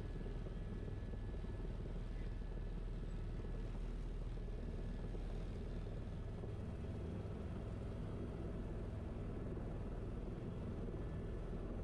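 Helicopter running in flight: a steady drone of engine and rotor with an even low hum.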